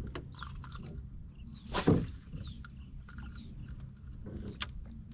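Several short, faint birdlike chirps, each sliding down in pitch, over a steady low rumble, with one louder short noise about two seconds in.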